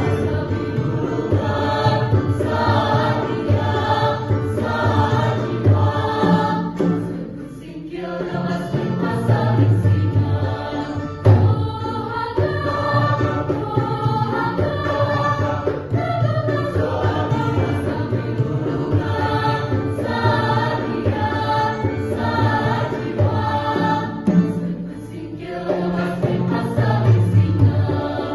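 Mixed choir of male and female students singing a Sundanese kawih song in parts (rampak sekar), with brief breaks between phrases about 8 and 25 seconds in.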